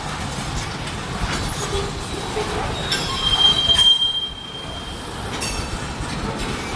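Slow freight train rolling past with steady wheel and rail noise and a few scattered knocks; a little past the middle, a wheel squeals on the rail in one high, steady tone for about a second.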